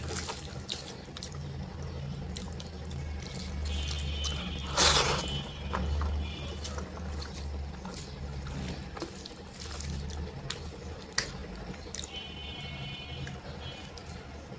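Wet eating sounds of dal and rice: squelching, smacking and chewing, with one louder wet slurp-like burst about five seconds in. A faint high warbling tone comes and goes several times over a low steady hum.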